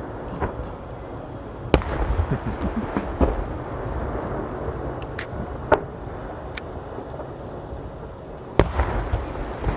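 Aerial fireworks bursting. There is a sharp bang about two seconds in and another near the end, each followed by a spell of crackling, with single cracks in between over a steady low background noise.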